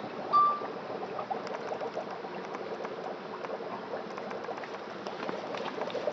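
Dry ice bubbling and fizzing in hot water, a dense steady crackle of bursting bubbles, with one short high tone about half a second in.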